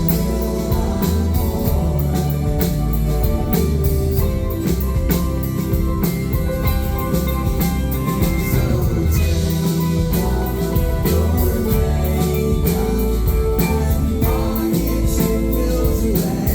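Live rock band playing through a concert PA: guitars and drums with a steady beat.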